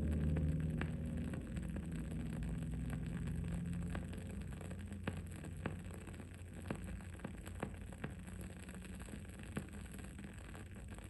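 Wood wick candle burning with soft, irregular crackles and pops, a few a second at most, over a low background hiss. A low hum fades away over the first few seconds.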